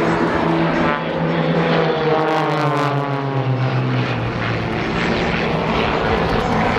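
Propeller aerobatic aircraft engine droning in a display flypast, its pitch dropping from about a second in as it passes, with a steady engine note underneath.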